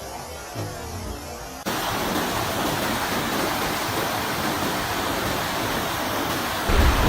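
Loud, steady rushing noise of a storm starts abruptly about a second and a half in, after a quieter stretch. A heavy low rumble comes in just before the end.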